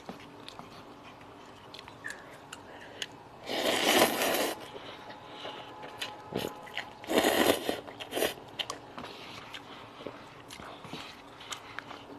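Eating noodles: two loud slurps of about a second each, a few seconds apart, with a shorter one just after the second, and small clicks and quiet chewing between them.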